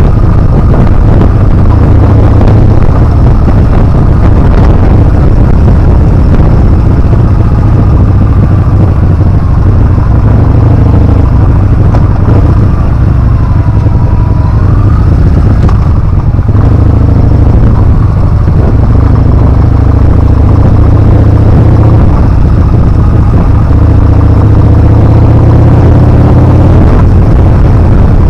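Heavy wind buffeting the action camera's microphone while riding a Yamaha Bolt R-spec, loud throughout. Under it the bike's air-cooled V-twin runs, its pitch rising and falling with the throttle.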